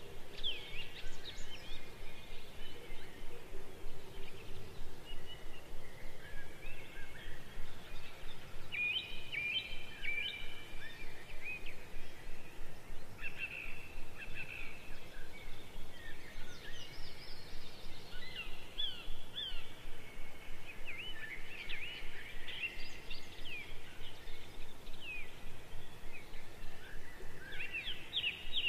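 Many small birds chirping and twittering, in short quick calls that rise and fall in pitch and overlap one another.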